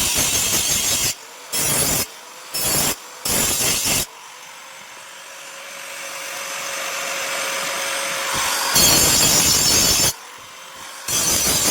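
Power tool grinding steel in short passes, with brief breaks. In a longer pause its motor runs on with a quieter steady whine that slowly grows louder, before it bites into the metal again.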